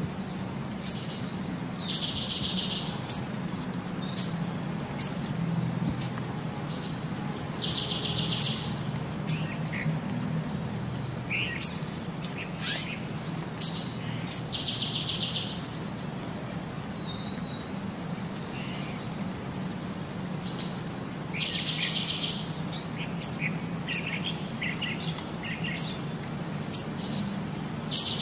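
Songbirds singing: one phrase repeats about every six seconds, a high clear note followed by a buzzy trill about a second long, with short sharp high chirps in between. A steady low hum runs underneath.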